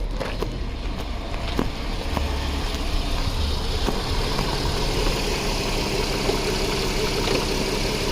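2008 Volkswagen Passat's 3.6-litre VR6 engine idling steadily just after being started, with a few light clicks in the first few seconds.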